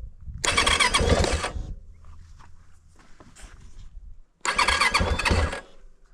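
A motorcycle's electric starter cranking the engine in two short bursts of about a second each, with a squeal, and the engine not catching. The owner puts the trouble down to a dead battery that has to be replaced.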